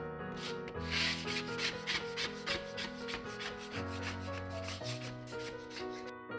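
Emery paper rubbed by hand over the rusted sheet-metal door of a fridge in quick repeated strokes, sanding back flaking paint and rust, over background music.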